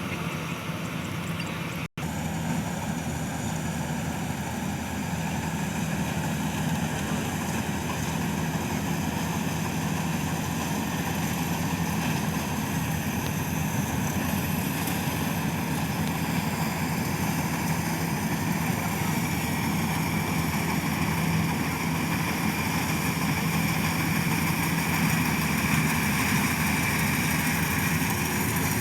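Rice combine harvester's engine running steadily, with a constant low hum and machinery noise; the sound drops out for an instant about two seconds in.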